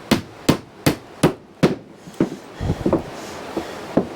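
Hammer striking wood: five quick, even blows a little under half a second apart, then several lighter, irregular knocks.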